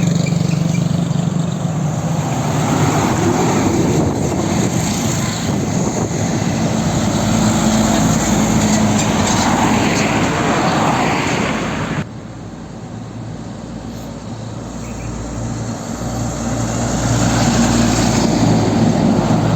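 Heavy truck engine running steadily, with a hum of low tones under road and engine noise. About twelve seconds in it cuts suddenly to a quieter engine sound that grows louder again.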